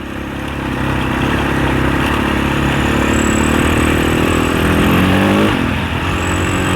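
Husaberg 650 four-stroke single-cylinder enduro dirt bike under way on a trail, engine pulling steadily under wind noise. About five and a half seconds in, the revs fall away as the throttle closes.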